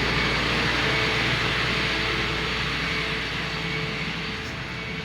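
Heavy lifting machinery's engine running steadily, a low hum under a broad hiss and a faint whine, easing off slightly near the end.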